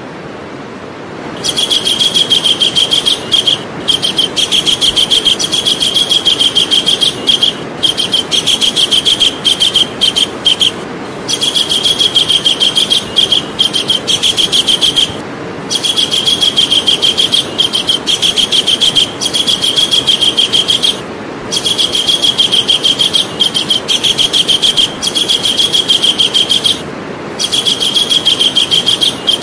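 Javan kingfisher calling in long, rapid, high-pitched chattering trills, each run broken by a brief pause every few seconds. A steady background hiss lies beneath.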